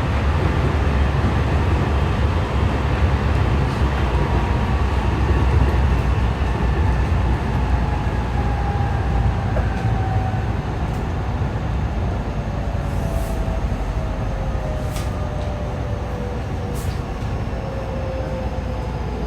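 JR West 207 series electric train running, its inverter motor drive whining in two slightly offset tones that slide slowly down in pitch over a steady low rumble, as the train slows. The offset comes from the two inverters on one motor car (KuMoHa 207-1037) sounding out of step, giving this set its odd inverter tone.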